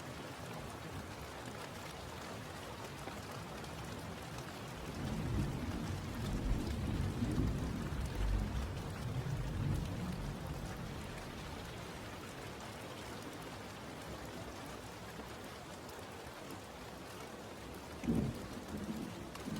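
Steady rain falling, with a low rolling rumble of thunder building about five seconds in and lasting several seconds, then a short, sharper thunder crack near the end.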